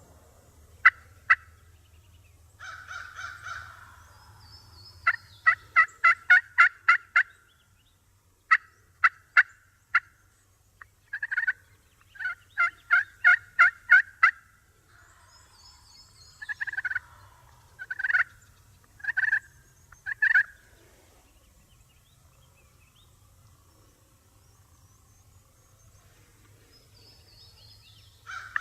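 Turkeys calling: several runs of short, sharp yelping notes, about five a second, with a few longer rattling gobbles, dying away about two-thirds of the way through. A faint low hum sits underneath.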